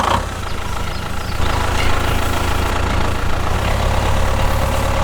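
Engine idling steadily, with most of its energy low down; it starts abruptly at the beginning.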